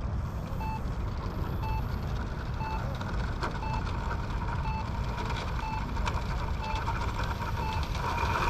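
Spektrum iX12 radio transmitter's flight timer beeping a countdown: short single-pitched beeps about once a second, over a steady low rumble.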